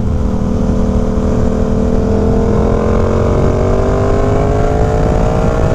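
Twin-cylinder motorcycle engine pulling under acceleration, its note climbing slowly through the second half, over a steady rush of riding wind.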